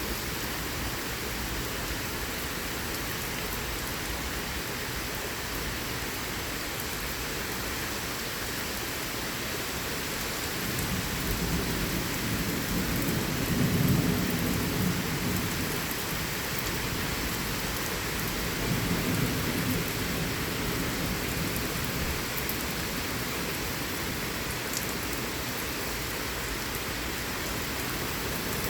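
Steady heavy rain falling. About ten seconds in, a rolling rumble of thunder swells for several seconds, and a second, weaker rumble follows a few seconds later.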